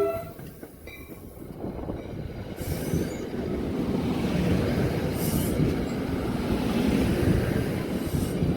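A train horn cuts off right at the start, then the rumble of a train on the rails builds up over the next few seconds and holds steady as it rolls along.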